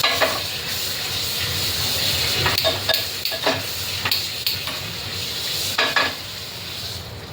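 Food frying in a hot pan with a steady sizzle while a spoon stirs it, the spoon knocking against the pan several times.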